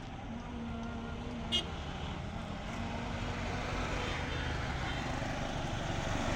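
Road vehicle on the move: steady engine and tyre rumble that grows gradually louder, with one short, sharp high beep about one and a half seconds in.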